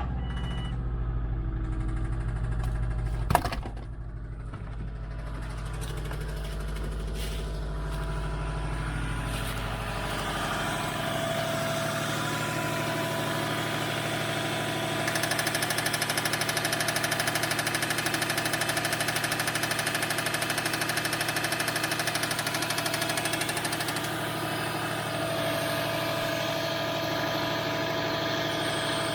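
2004 Subaru WRX's turbocharged flat-four engine running at idle with a knocking noise that the owner says sounds like rod knock. A single sharp click about three seconds in.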